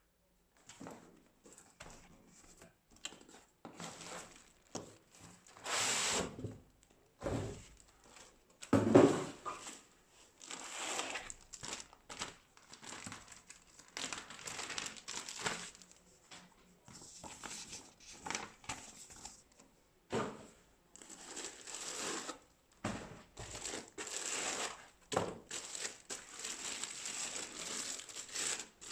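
Laptop packaging being unpacked by hand: irregular crinkling and rustling of wrapping and box material, with a louder, heavier handling noise about nine seconds in.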